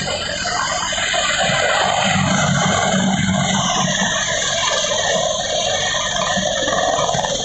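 AH-64 Apache helicopter running, a loud, steady mix of turbine and rotor noise.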